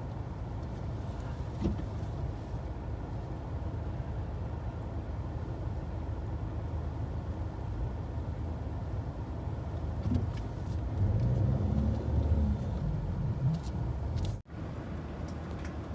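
Motor vehicle running with a steady low rumble that grows louder for a couple of seconds past the middle, then cuts out for an instant near the end.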